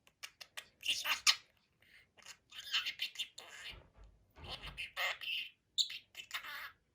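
Pet budgerigar chattering in a run of short, broken bursts.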